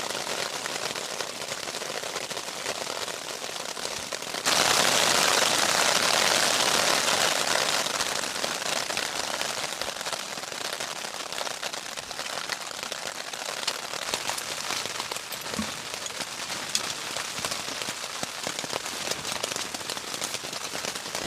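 Steady rain falling on a tent. It gets suddenly heavier about four and a half seconds in, then slowly eases.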